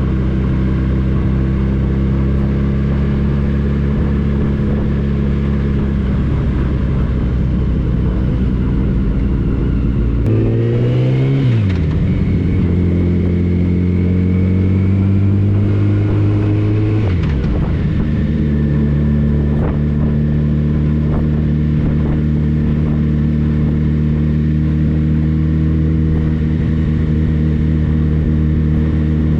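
Touring motorcycle engine running under way, steady at first. About ten seconds in the revs climb and then drop sharply, the pitch changes again around seventeen seconds, and it settles back into a steady run.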